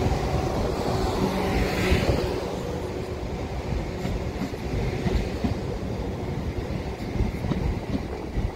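South Western Railway electric multiple unit running past along the platform and moving away, with a steady hum and a few sharp clicks of wheels over rail joints. It grows a little quieter after about two seconds as it goes.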